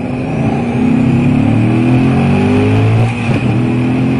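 1968 Pontiac Firebird's engine accelerating, its note climbing steadily, with a brief break and drop in pitch about three seconds in as it shifts gear, then pulling on.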